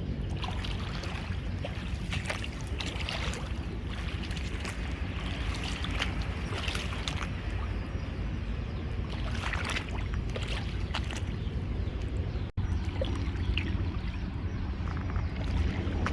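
Kubota M6040SU tractor's diesel engine running steadily, with scattered crackling noises over it, as the tractor is stuck.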